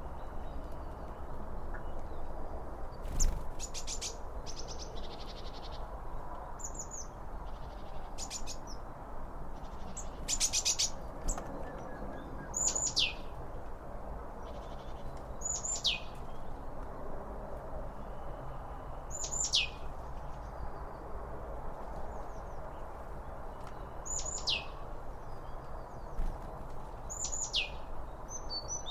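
Songbirds calling: a high whistle that slides down in pitch, repeated every few seconds, and quick trilled calls, over a steady low rushing background. A single thump comes about three seconds in.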